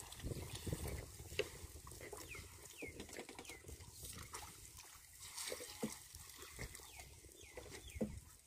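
Birds chirping: a string of short, falling calls, a few at a time, over faint low rustling and scattered light knocks.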